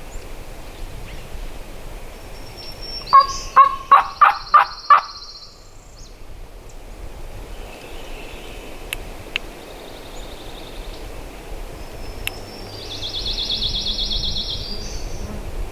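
A run of about six loud, sharp turkey yelps, about three a second, a few seconds in. Later a high buzzy trill sounds for a couple of seconds over steady wind-like hiss.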